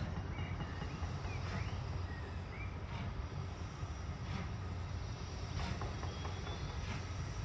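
A railway train running with a steady low rumble and a regular beat about every second and a half. Small birds chirp a few times in the first few seconds.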